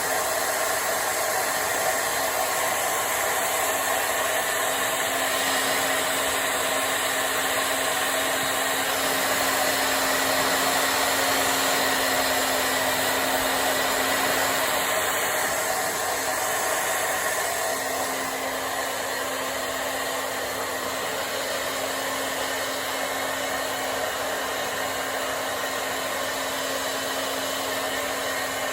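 Hand-held hair dryer blowing steadily as it dries hair: a continuous rush of air with a steady motor hum, getting slightly quieter a little past halfway.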